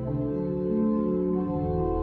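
Offertory music on a church organ: slow, sustained chords, each held about a second before moving to the next.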